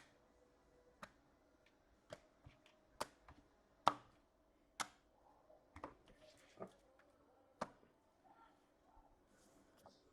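Faint, irregular clicks and taps of hockey trading cards and their holders being handled on a table, about a dozen in all, the loudest a little under four seconds in.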